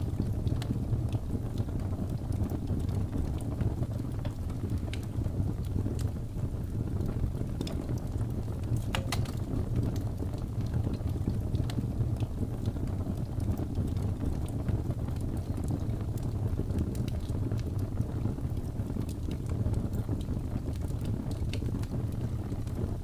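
Wood fire burning: a steady low rumble of flames with scattered crackles and pops, one sharper pop about nine seconds in.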